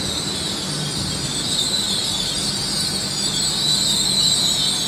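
A pair of coupled five-carriage Class 800 trains at the platform: a steady high-pitched whine over a low hum.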